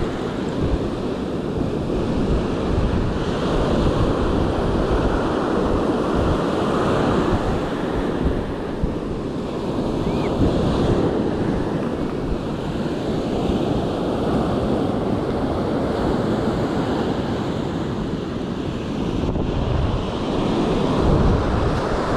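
Ocean surf washing in, with wind buffeting the microphone in a steady low rumble.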